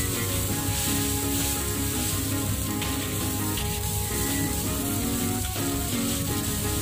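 Fried rice sizzling in a hot metal wok as it is stirred and turned with a metal spatula, with background music playing underneath.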